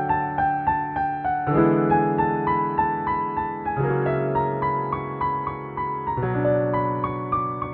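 Solo piano playing a slow, gentle piece: a melody of evenly paced single notes over low sustained chords that change about every two seconds.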